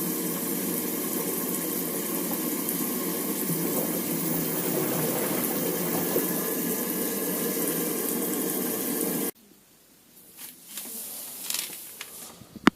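Water running steadily inside an LG F12A8HDS5 front-loading washing machine during a test run with its top lid off, most likely taking in water. It stops suddenly about nine seconds in, followed by faint scattered knocks and a brief click near the end.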